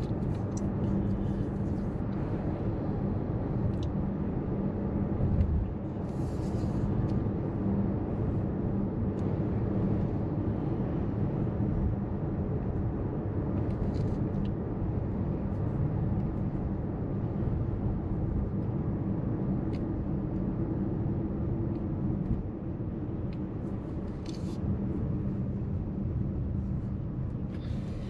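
Steady road and engine rumble inside a moving car, with a low hum and a few faint ticks.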